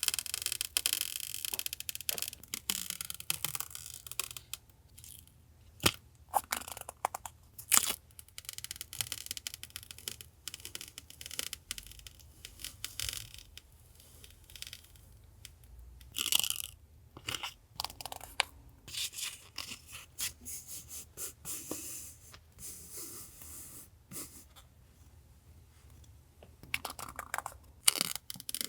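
Close-up handling of washi (masking) tape rolls and their packaging: irregular crinkling, rustling and tearing, with a few sharp clicks.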